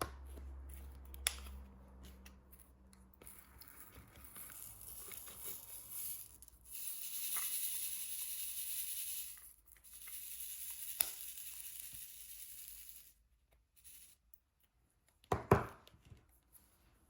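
Plastic film on a diamond painting canvas peeling and crinkling: a crackling rasp in two spells of a few seconds each, with a few sharp taps.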